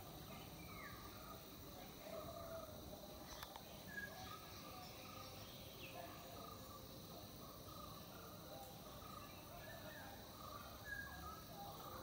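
Faint, scattered short bird chirps over a steady low outdoor rumble.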